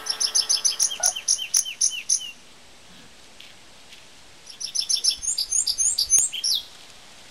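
A songbird singing two phrases of rapid, high chirps, each about two seconds long, with a pause of about two seconds between them.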